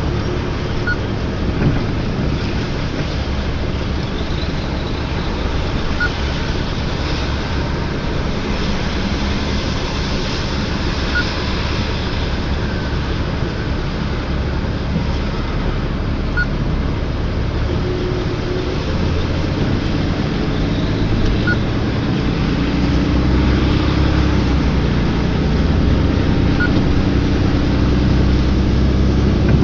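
Tow truck driving, its engine and road noise steady throughout and growing louder about two-thirds of the way in.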